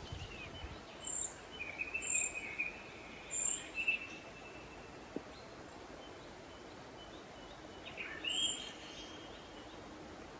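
Wild birds calling: short high chirps with thin whistled notes, in a spell through the first few seconds and again briefly near the end, over a faint steady hiss.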